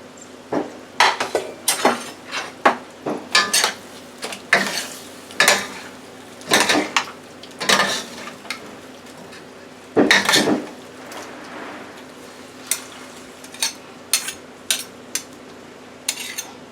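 A utensil knocking and scraping in a frying pan as the chicken and vegetable stir fry is stirred, in irregular clatters with a few longer scrapes.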